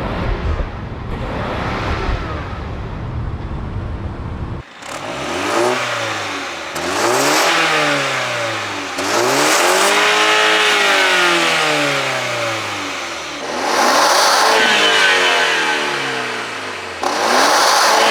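Performance car engine sounds. First comes a dense, rough low rumble. After an abrupt change about four and a half seconds in, an engine is revved again and again, its pitch sweeping up and falling back each time.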